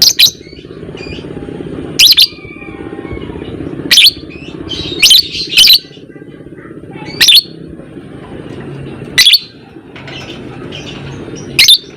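Lovebird giving loud, shrill, short chirping calls, about eight of them at irregular intervals, some in quick pairs. A steady low hum runs underneath.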